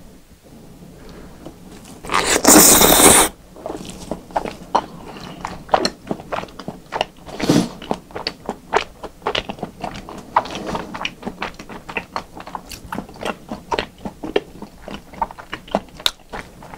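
Close-miked mouth sounds of eating yukhoe (seasoned raw beef): wet chewing with many irregular clicks and smacks. A loud noisy burst lasting about a second comes about two seconds in.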